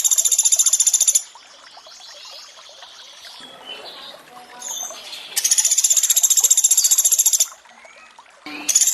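Pelatuk beras call in its 'tembakan' form: a fast, high-pitched rapid-fire trill of even pulses, each burst about two seconds long. One trill ends about a second in, another sounds midway, and a third starts at the very end, with soft running water between them.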